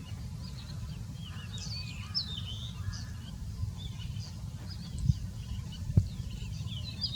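Small birds chirping, many short high calls. Underneath is a steady low rumble, with two sharp thumps about a second apart near the end.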